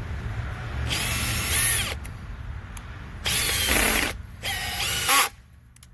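Makita XPH07 18V brushless hammer drill in screw mode driving a screw into wood. It runs in three short trigger bursts; the motor whine rises as each burst starts and falls away as it stops.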